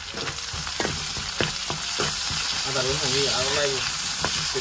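Wild mushrooms, onion and green chilli frying in hot mustard oil in a steel kadhai, sizzling steadily as a steel ladle stirs and scrapes them, with sharp clicks of the ladle against the pan. The sizzle swells in the first second, with the mushrooms freshly in the oil.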